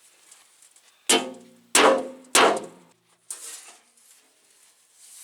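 Sledgehammer striking a metal truck fender to beat out a dent: three heavy, ringing blows about two-thirds of a second apart, then a lighter knock.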